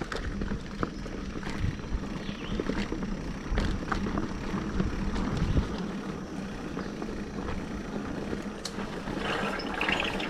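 Mountain bike rolling over a wet dirt trail: tyre noise with scattered knocks and rattles from the bike, and low wind rumble on the microphone.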